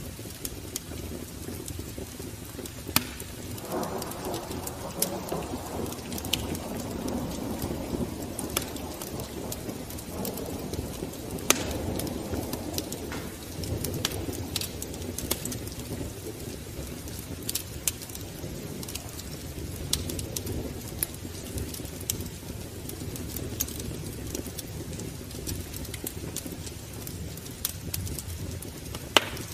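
Wood fire crackling in a fireplace, with scattered sharp pops over a steady low rumble of burning.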